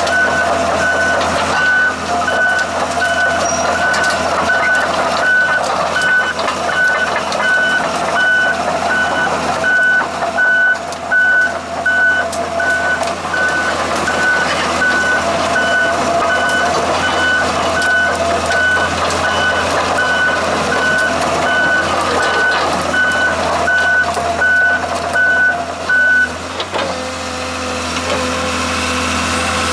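Komatsu PC200LC-6 excavator's travel alarm beeping about twice a second over the running diesel engine, the sign that the machine is tracking. The beeping stops about 26 seconds in and the engine runs on at a steady pitch.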